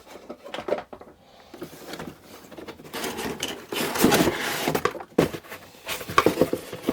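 Unpacking vacuum cleaner accessories by hand: packaging rustling, with irregular knocks and clicks of plastic parts, busiest in the second half.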